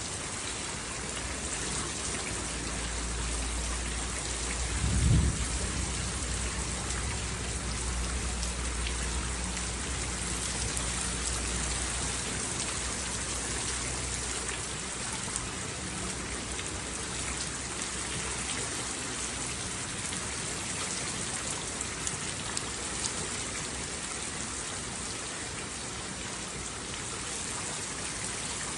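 Steady heavy rain falling, with a rumble of thunder that swells to a sharp clap about five seconds in and then rolls away over the next ten seconds.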